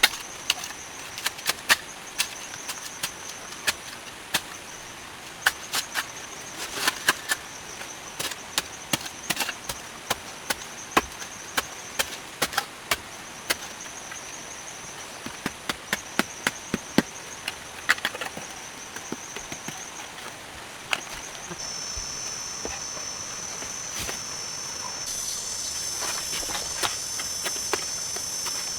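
Irregular sharp knocks and cracks, in clusters of several at a time, over a steady high-pitched insect trill that grows louder in the last third.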